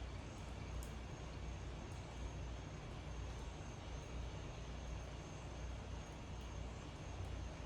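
Steady outdoor background: a low, even rumble with a faint, thin high tone held over it and a few faint ticks.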